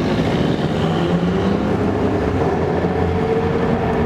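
Steady car engine and road noise inside a moving car: a continuous low drone.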